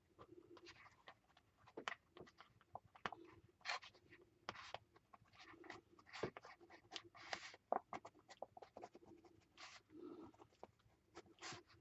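Stabilo pencil scratching across a paper journal page in many short, quick doodling strokes.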